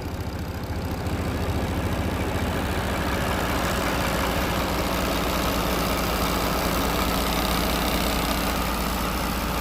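Mack Anthem semi truck's diesel engine idling with a steady rumble, growing louder about a second in and then holding even.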